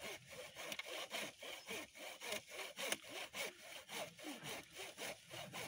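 Hand saw cutting through a live plum tree limb, in steady back-and-forth rasping strokes, roughly two to three a second.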